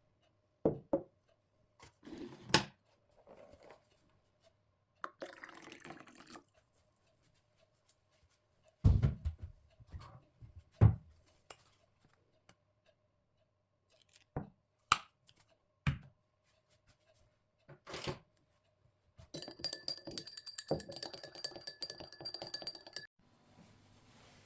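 Kitchen work sounds: dishes, bowls and utensils knocked, clinked and set down one at a time, with two louder thuds in the middle. Near the end, about four seconds of dense rattling with a steady high ring.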